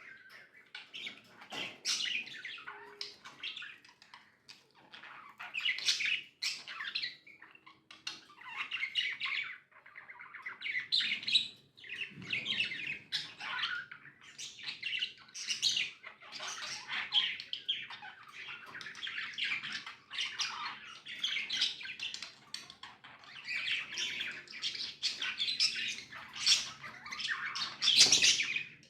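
Several budgerigars chirping and chattering continuously, with squawks mixed in and a loud sharp call near the end.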